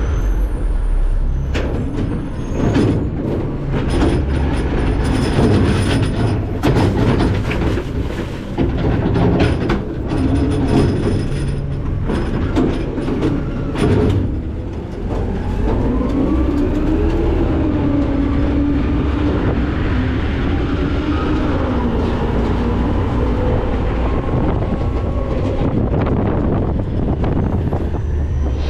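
Rear hopper of a McNeilus ZR rear-loader garbage truck: trash crashes and clatters into the hopper with many sharp knocks. About halfway through, the packer cycles with a steady whine from the hydraulics and engine that shifts slightly in pitch.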